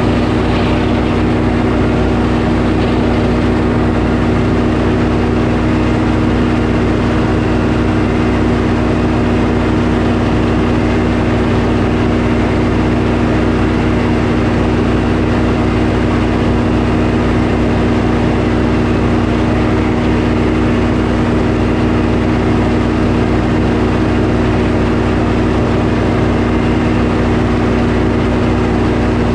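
Sawmill engine running steadily at a constant pitch and level.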